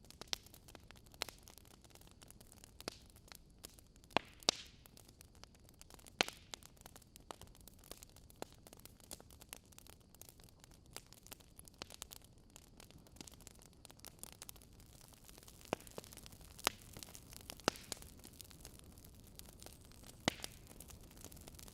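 Fire crackling: irregular sharp pops and snaps over a soft steady hiss, a few pops standing out louder than the rest.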